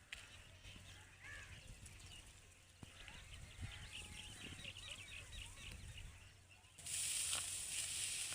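Faint bird calls, short chirps and rising-falling whistles, over a low steady rumble. Near the end a loud steady hiss starts suddenly.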